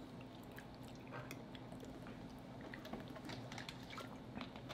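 Faint, close-miked chewing and wet mouth sounds of people eating soft cheesy spinach casserole: many small irregular clicks and smacks.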